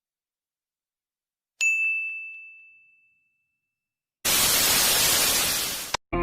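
Intro sound effects: a single bell-like ding about a second and a half in that rings out, then, after a pause, about two seconds of loud static hiss that starts and cuts off abruptly, with music starting at the very end.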